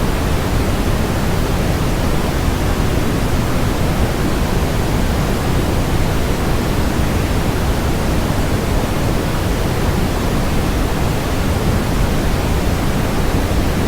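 Loud, steady brown noise: a deep, even rushing hiss, heaviest in the bass.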